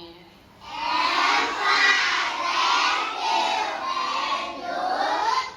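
A class of children shouting together, many voices at once, starting about a second in and going on until near the end.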